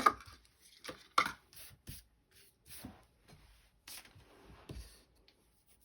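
Paper and small craft tools being handled on a tabletop: scattered taps and rustles, about half a dozen, as cardstock scraps are cleared away.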